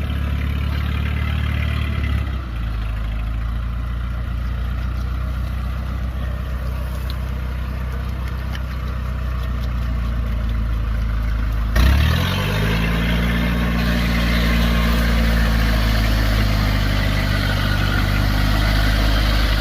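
Tractor engine running steadily. About twelve seconds in, the sound changes abruptly and the engine's pitch rises quickly, then holds at a higher, busier note.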